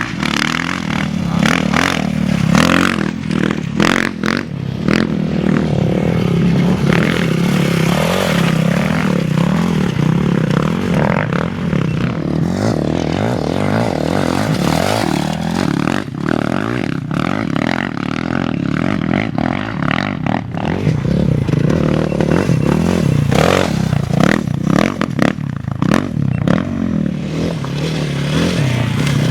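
Off-road racing motorcycle or quad engine running hard and steadily, with frequent clattering and scraping knocks over rough ground.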